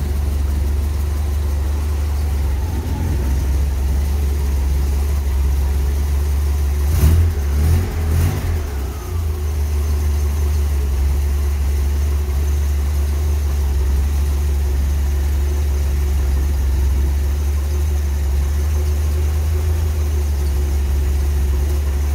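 Four-cylinder Ford Maverick engine in a 1963 Jeep Willys running at a steady idle, with a short unsteady surge of revving about seven to nine seconds in.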